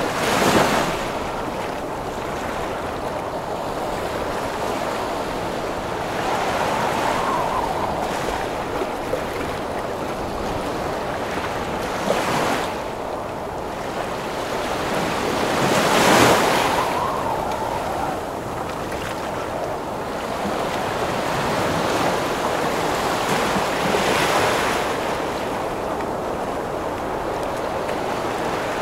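Heavy ocean waves breaking in a wind storm: a constant rush of wind and surf, with a wave crashing loudly every few seconds, the biggest near the start and about halfway through.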